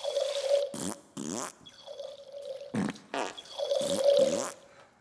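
A string of loud, fart-like blats, about seven in under five seconds, each a short rasp sliding in pitch, with a steady hum in the gaps between them.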